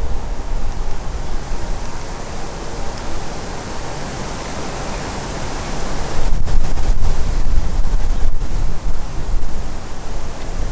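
Strong wind gusting, buffeting the microphone with a low rumble, with a steady rush behind it. It grows louder about six seconds in.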